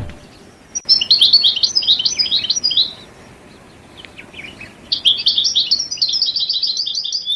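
A small songbird singing: two fast, high-pitched twittering phrases, each about two seconds long, with a short quieter pause between them.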